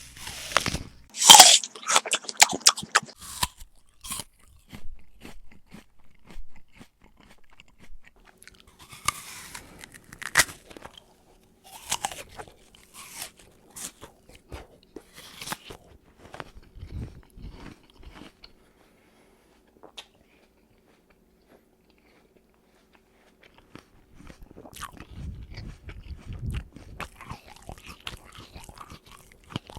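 Close-up eating sounds: a person biting and chewing crunchy food. The loudest crunching bites come in the first few seconds, with the sharpest about a second and a half in. After a pause near the middle, softer, duller chewing follows toward the end.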